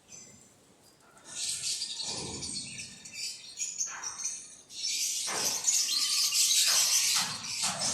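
Many birds chirping together in a dense, continuous chatter that starts about a second and a half in, with some handling knocks and rustles underneath.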